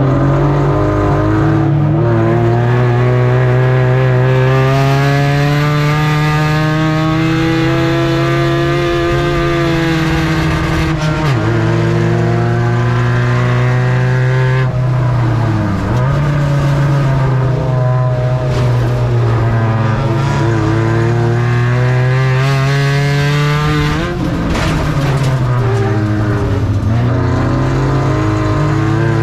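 Ford Ranger race truck's engine under racing load, its pitch climbing for several seconds, then dropping sharply as it lifts off and coming back up again, in repeated cycles.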